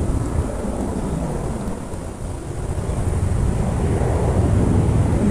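Strong wind buffeting the microphone: a loud, uneven low rumble that swells and eases in gusts, dipping a little about two seconds in.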